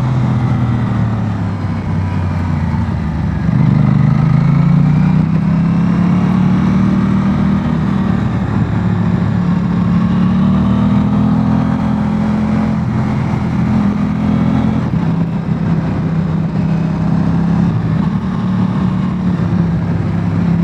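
Aprilia Tuono 660 Factory's parallel-twin engine heard while riding. The pitch drops over the first few seconds, then climbs steadily as the bike accelerates, and holds at fairly even revs for the rest of the stretch.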